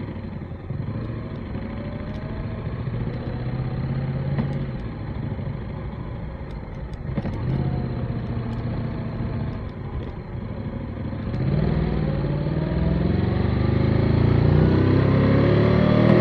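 Motorcycle engine running under way, with road and wind noise. A little past two-thirds of the way through it grows louder and its pitch climbs as the bike accelerates.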